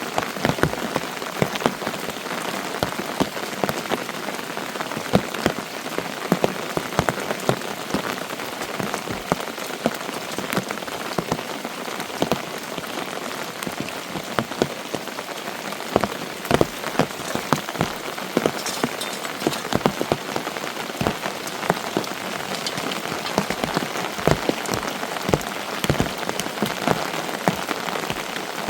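Steady heavy rain falling, with many sharp drops striking hard close by at irregular moments.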